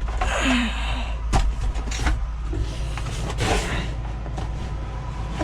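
A vehicle engine runs steadily with a low rumble, overlaid by a few sharp knocks and clicks and some rustling as something is picked up and handled.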